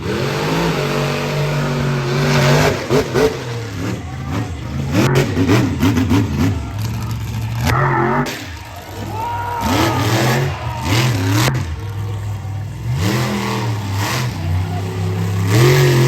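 Monster truck engine running loud and revving hard, its pitch rising and falling again and again, with a few sharp knocks or bangs.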